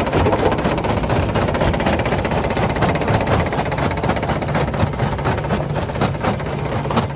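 Heavy rock-processing machinery running steadily, with rocks knocking and clattering against steel in quick, irregular succession.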